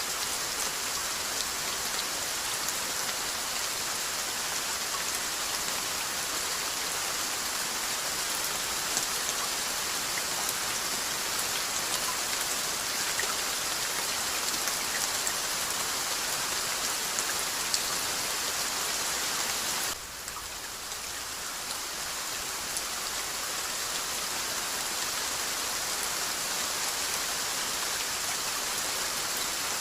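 Steady rainfall: an even hiss of rain with scattered individual drops ticking through it. About two-thirds of the way through, it drops suddenly in level and swells back over the next few seconds.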